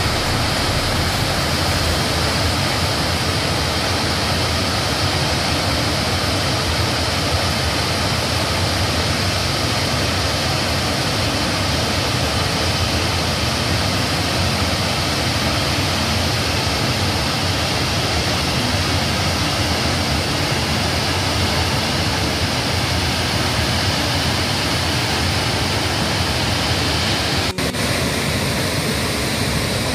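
Chitrakoot Falls, the Indravati River pouring over a wide waterfall: a steady, dense rush of falling water. It breaks off for an instant once near the end.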